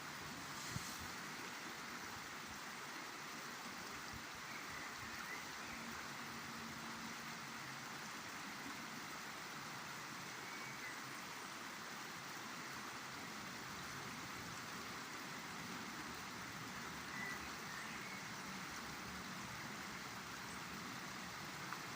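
River Douglas flowing, a steady rushing of water, with a few faint short chirps over it.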